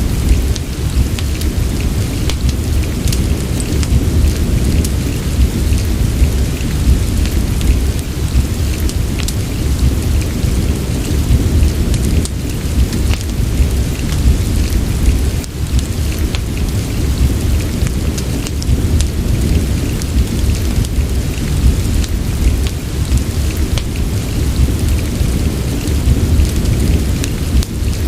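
Steady rain with a deep, constant low rumble, mixed with a fireplace whose scattered sharp crackles pop out above the rain.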